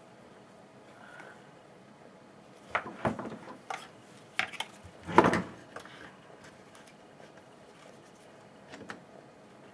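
Tools and small hard parts being handled and set down on a work surface: a run of clicks and knocks, the loudest a little after five seconds in, with a few lighter ticks near the end.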